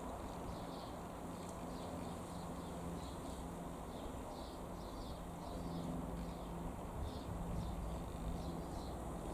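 A bird chirping over and over, short high chirps about three a second, over a steady low outdoor rumble with a faint hum that comes and goes.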